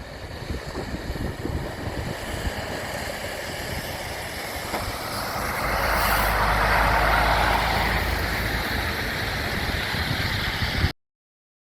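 A motor vehicle, likely a heavy one such as a truck, running outdoors over rough noise like wind on the microphone. It grows louder and steadier about halfway through, then the sound cuts off abruptly near the end.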